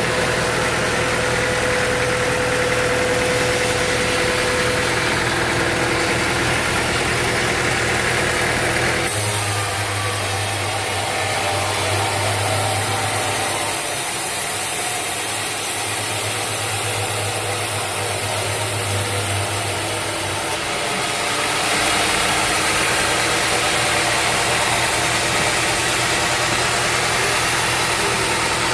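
Sawmill machinery running steadily, an engine hum under a dense mechanical noise. The sound shifts abruptly about a third of the way in and again about two-thirds in.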